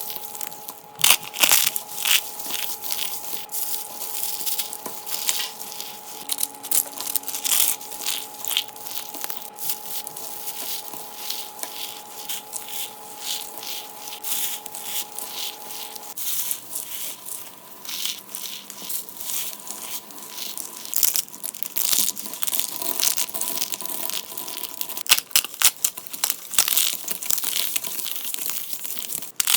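Dry soap being crushed by hand: a dense, irregular run of crackling and crunching snaps as the soap breaks and crumbles.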